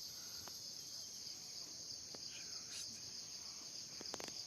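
A steady, high-pitched insect drone, unbroken throughout, with a few faint clicks near the end.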